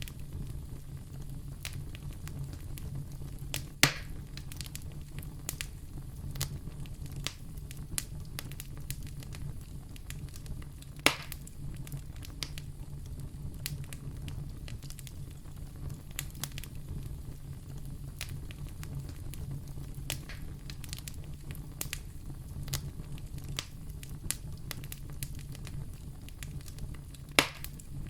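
Fire burning in a fireplace, crackling: a steady low rumble under frequent sharp crackles. Three much louder pops come about four seconds in, about eleven seconds in, and near the end.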